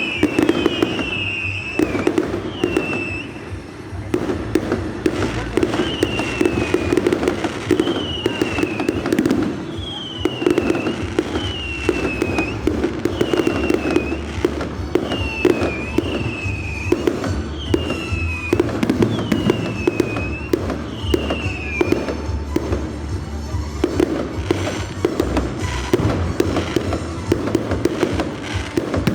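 Fireworks display: a dense run of bangs and crackling bursts, with a string of short falling whistles about every second and a half that stops about two-thirds of the way through.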